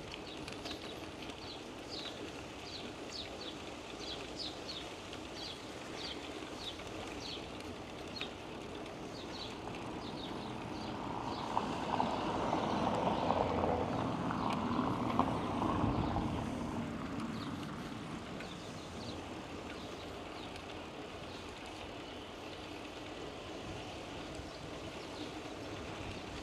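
A motor vehicle passes, its sound swelling and then fading over about six seconds near the middle, over steady outdoor background. Short high chirps repeat through the first ten seconds or so.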